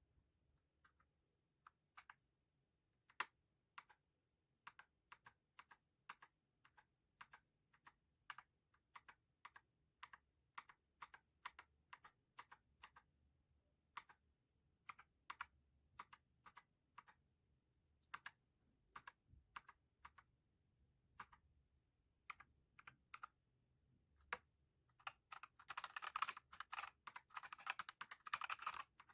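Keystrokes on a mechanical keyboard with Akko CS Lavender Purple tactile switches and PBT pudding keycaps: single keys pressed at a slow, uneven pace, then rapid continuous typing from about 25 seconds in.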